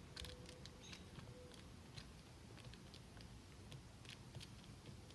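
Faint, irregular small clicks and scrapes of hand work on a sewage sump pump's cap, against near silence.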